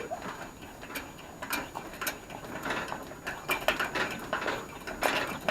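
Fuel-tank pump of an old Coleman camp stove being worked by hand: a run of irregular mechanical clicking and scraping strokes, roughly two a second, as the tank is pressurised.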